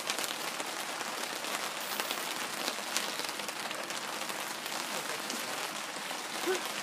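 Rain falling steadily during a thunderstorm, with many separate drops tapping close by.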